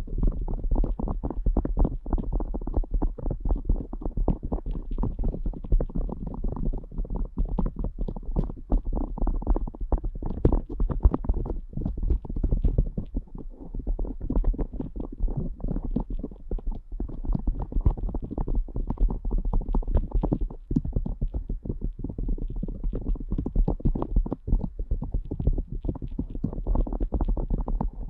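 Ear picks scraping and rubbing inside the ear of a binaural microphone: close, muffled, rapid scratching with a low rumble and no pauses.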